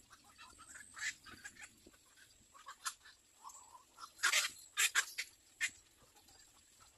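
Little egrets at the nest making scattered short, scratchy sounds, with a louder cluster of them about four to five and a half seconds in.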